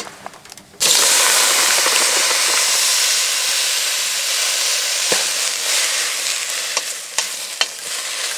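Sliced Wiener sausages, corn and jalapeños sizzling as they hit a hot stainless-steel pot. The sizzle starts suddenly about a second in and eases slowly. Near the end a wooden spoon stirring knocks and scrapes in the pot.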